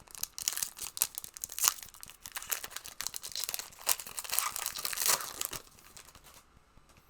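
Wrapper of a Monopoly Prizm trading-card booster pack being torn open and crinkled by hand: a dense, rapid crackling that dies away near the end.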